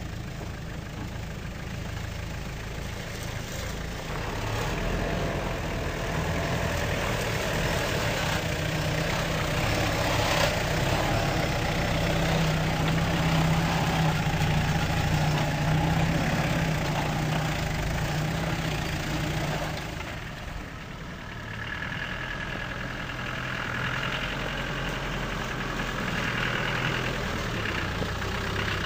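Off-road 4x4 engines running at low revs as the vehicles crawl over rocks, growing louder as one passes close by, dropping off just after the middle, then rising again as another vehicle approaches.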